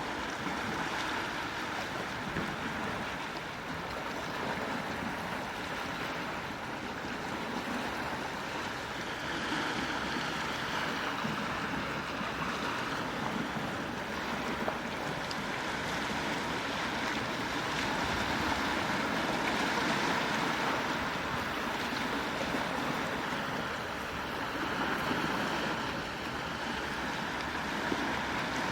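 Gentle sea waves washing ashore, a steady wash of surf that swells and eases slowly.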